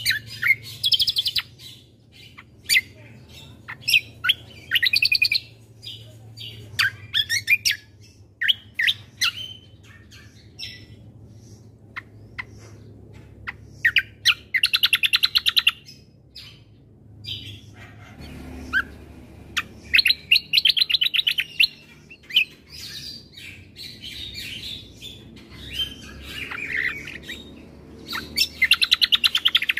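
Kecial kombo (cucak kombo) songbird singing: bursts of fast, rattling trills every few seconds, with sharp single chirps in between.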